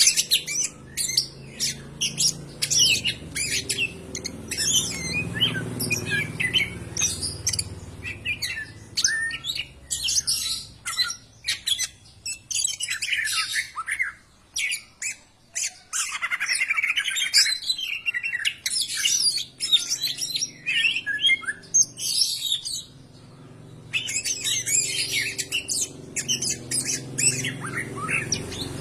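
Cucak ijo (greater green leafbird) singing: a fast, varied stream of chirps, whistles and squawky notes, with a short lull about three quarters of the way through, over a faint low steady hum.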